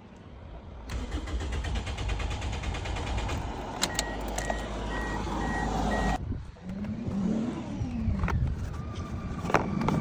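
Toyota engine cranking on the starter motor without catching for about five seconds, then cutting off abruptly: a no-start fault in which the engine turns over but won't fire. A beeping tone sounds over the last two seconds of cranking, and a few sharp clicks follow.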